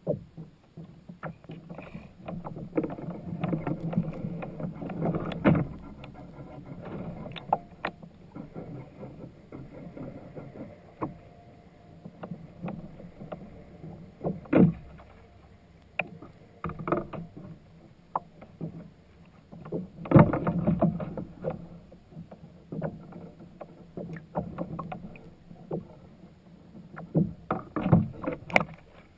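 Sounds of a kayak on the water: irregular splashing and swishing with scattered knocks against the hull. The strongest knocks come about halfway through and again about two-thirds of the way through.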